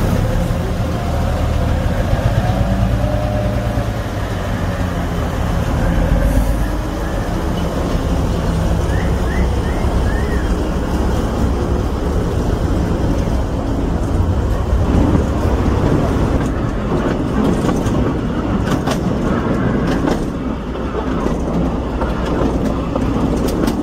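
Diesel locomotive engine running steadily as the train pulls out, then the train rumbling along the track with wheels clicking over the rail joints.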